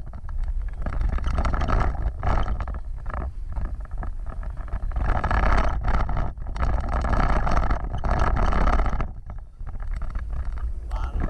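Off-road vehicle driving: a steady low rumble with rough, uneven noise over it that swells and eases, loudest in the middle.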